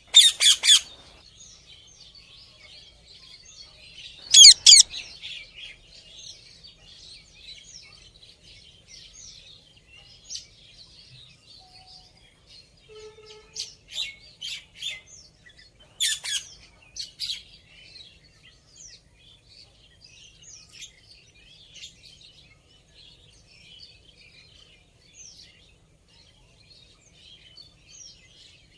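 Indian ringneck parrot calling in short, loud, harsh screeches: once at the start, again about four seconds in, and in a cluster around the middle. Continuous high twittering of many small birds runs underneath.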